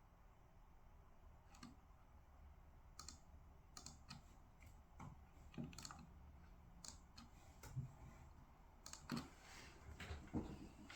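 Faint, irregular clicks of typing on a computer keyboard, starting about a second and a half in and growing busier toward the end, over a low steady hum.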